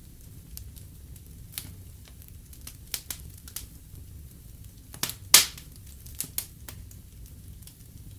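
Wood fire in a fireplace crackling, with irregular sharp pops over a low steady rumble; the loudest pop comes a little past the middle.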